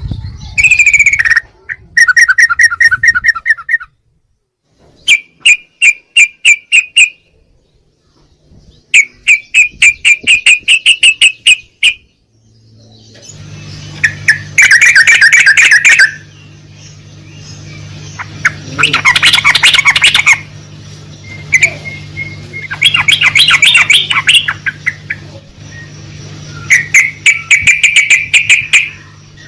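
Yellow-vented bulbul (trucukan) song: loud bursts of rapid, repeated chattering notes, each burst lasting one to three seconds with short pauses between. A steady low hum joins partway through.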